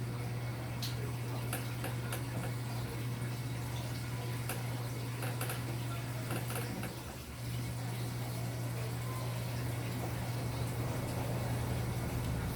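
Enxuta Junior 2 kg washing machine running with water in the tub: a steady motor hum with water noise, the motor dropping out briefly about seven seconds in.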